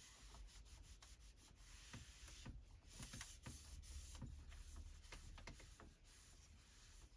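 Microfiber cloth wiping a car's interior surface: faint, irregular rubbing strokes.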